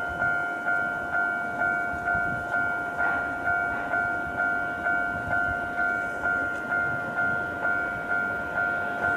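Japanese railway level-crossing warning bell ringing, an electronic two-tone ding repeated about twice a second, each strike sharp then fading. A low rumbling noise sits underneath.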